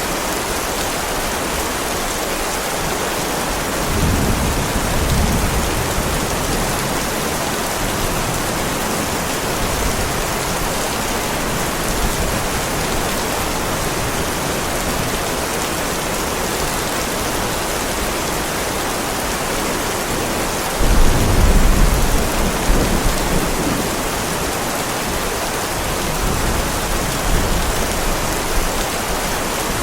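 Heavy rain falling steadily on a driveway, an even hiss. Thunder rolls in twice as a low rumble, once about four seconds in and more loudly about two-thirds of the way through.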